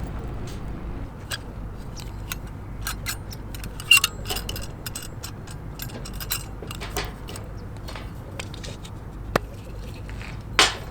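Scattered light clicks, taps and clatter of small objects being handled, over a low steady rumble, with a sharper knock about four seconds in and another near the end.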